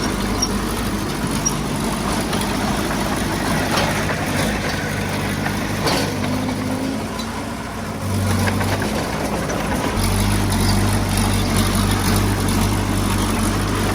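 Heavy-equipment diesel engine running steadily, with a few scattered clanks. Its low drone drops away for a few seconds in the middle, then comes back strongly about ten seconds in.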